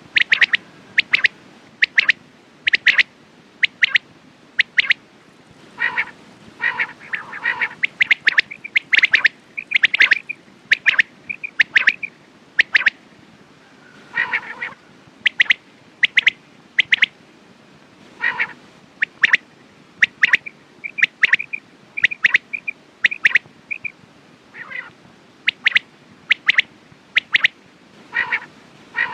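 Quail calling: a steady stream of short, sharp, high chirps, several a second at times, broken now and then by groups of lower, rougher calls.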